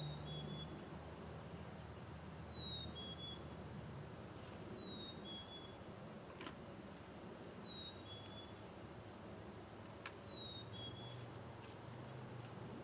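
Birdsong: a bird repeats a short call, a high note sliding down and then a slightly lower note, about every two and a half seconds. Brief higher chirps come in between, over a low background rumble. Two faint sharp clicks sound in the middle.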